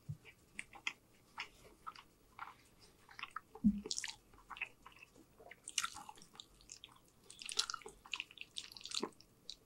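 Close-miked chewing of spaghetti, meatballs and bread: a run of wet mouth clicks and smacks.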